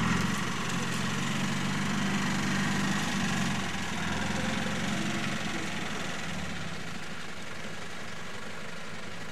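Land Rover Discovery engine running steadily at low revs as it crawls through mud. It eases off about three and a half seconds in, and by the end only a quieter engine hum of idling off-road vehicles remains.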